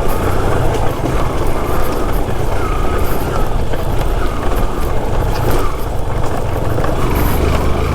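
Yamaha RX two-stroke single-cylinder motorcycle engine running steadily while riding.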